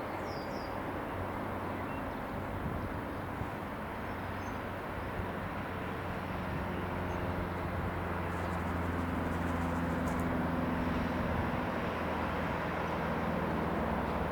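Cessna 152's single four-cylinder piston engine running with a steady low drone that grows somewhat louder through the middle and late part. A bird chirps briefly at the very start.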